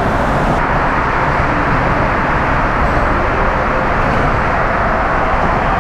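Wind buffeting the microphone in a steady, loud rush, mixed with passing road traffic.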